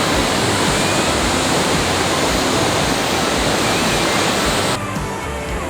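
A river's flowing water, heard as a loud, steady rush. It cuts off abruptly near the end, leaving faint background music.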